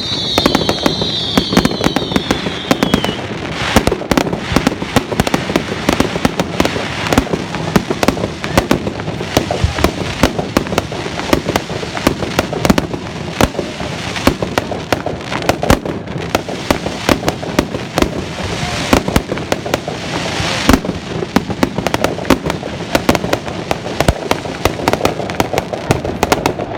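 Fireworks going off in rapid, continuous succession: a dense run of bangs and crackling pops, with several falling whistles in the first few seconds.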